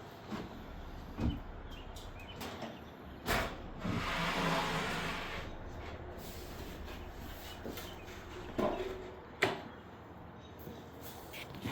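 Parts of a truck-bed kitchen box being handled while it is set up: a few separate knocks, and a sliding scrape about four seconds in, like a drawer or panel being pulled out.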